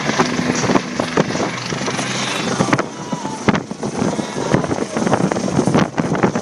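Helicopter hovering, a steady loud noise with irregular knocks, mixed with wind buffeting the microphone.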